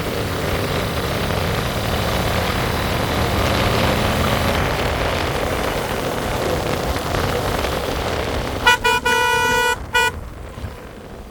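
Steady road and wind noise of a ride, then a vehicle horn sounds near the end: two quick beeps, a longer blast and one more short beep.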